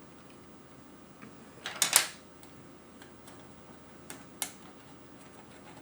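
Plastic keycaps clicking and snapping onto an Amiga keyboard: a quick cluster of sharp clicks about two seconds in, then two more single clicks a couple of seconds later.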